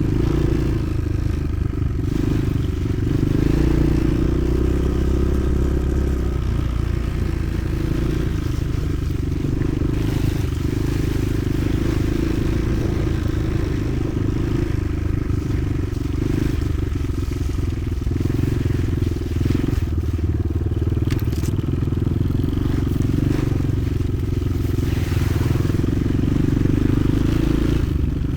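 Motoland XR 300 Lite enduro motorcycle's single-cylinder four-stroke engine running under way at fairly steady revs.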